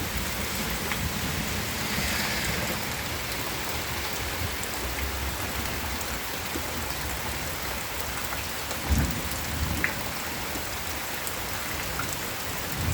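Steady rain falling, with a couple of brief low thumps about nine seconds in.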